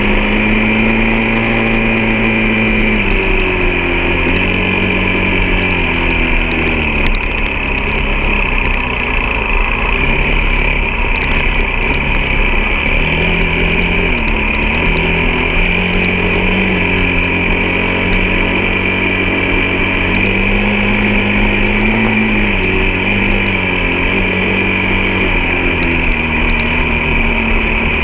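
A vehicle engine running continuously while being driven, its pitch rising and falling as the throttle and load change, with a steady high whine over it.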